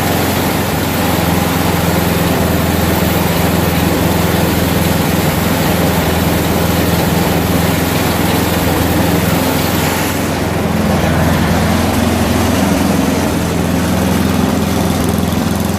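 Craftsman 31-inch snowblower's four-stroke engine running steadily on old gas, its note shifting slightly about ten seconds in.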